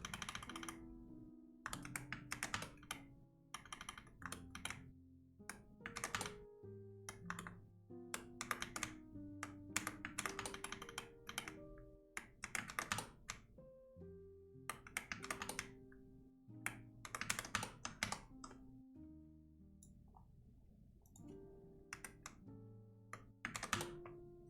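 Computer keyboard typing in quick bursts of keystrokes with short pauses between, over soft background music of held notes.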